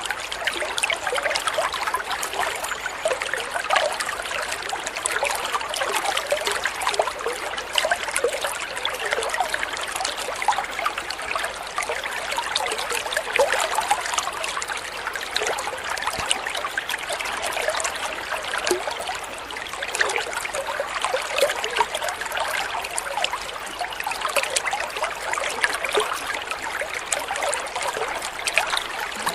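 Water trickling and splashing steadily, a continuous babble of small droplets like a small stream or fountain.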